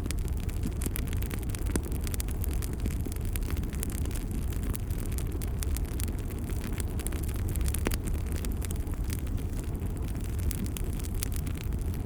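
Wood fire crackling in a fireplace: a steady low rumble of flames with constant small crackles and a few sharper pops.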